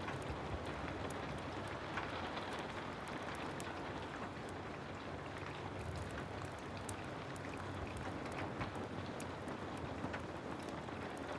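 Steady heavy rain falling, with many small sharp ticks scattered through it.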